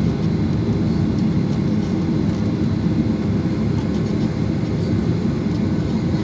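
Steady low rumble inside the cabin of a Boeing 737-800 while it taxis, its CFM56-7B engines running at low thrust.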